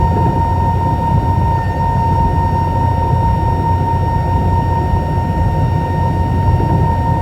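Cabin noise inside an Airbus A320-212 with CFM56 engines: a steady loud rumble of engines and airflow, with a steady high whine over it.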